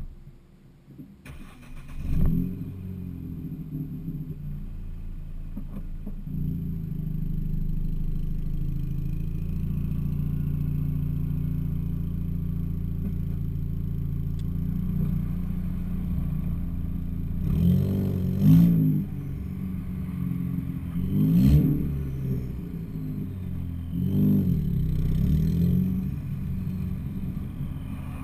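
Ford Fiesta ST with an aftermarket side-exit exhaust starting up about two seconds in, settling into a steady idle, then revved in three short blips in the second half.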